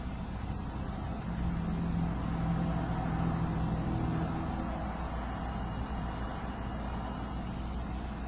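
A passing vehicle from outside traffic: a low drone that swells over the first few seconds and then eases off. Beneath it run a steady hiss and the high-pitched whine of the camera's hard drive, which shifts pitch a couple of times.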